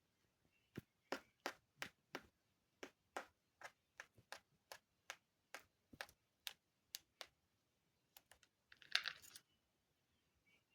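Faint, sharp clicks or taps, irregular at about two or three a second, stopping about seven seconds in, followed by a brief rustle near nine seconds.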